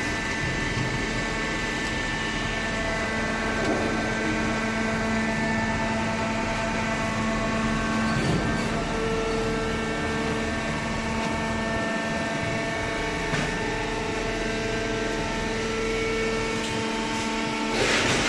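Machinery running steadily with a hum of several held tones over a noisy background, with a few light knocks and a louder rush of noise at the very end.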